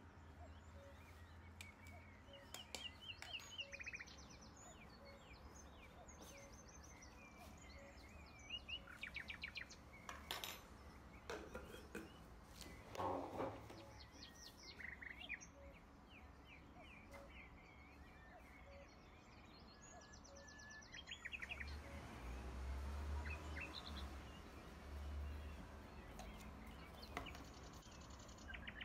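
Faint birds chirping in the background, short rapid trills repeating every few seconds, with a few soft knocks near the middle and a low rumble later on.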